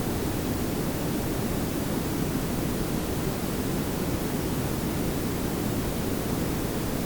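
Steady synthetic pink and brown noise layered together: an even hiss over a strong low rumble, unchanging throughout.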